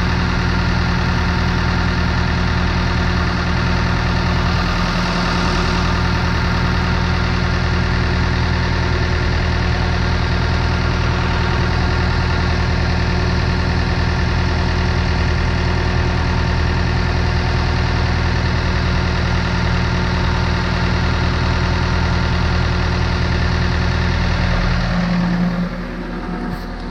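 An engine running steadily at a constant speed, a low even hum that holds unchanged, then drops away about 25 seconds in.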